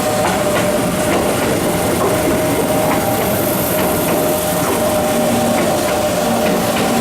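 Keihan electric train running, with a steady whine and wheels clicking over rail joints at uneven intervals.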